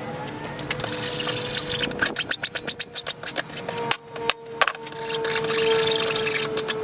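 Woodworking tool noise: a run of rapid clicks about two seconds in, then scraping on wood, over a steady whine.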